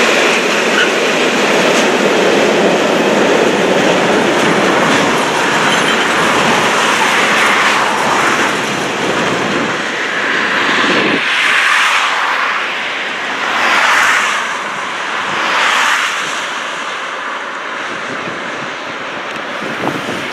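Freight train of tank wagons rolling past on the rails with a dense rumbling noise. About halfway through the rumble drops away, leaving a fainter hiss that swells and fades a few times.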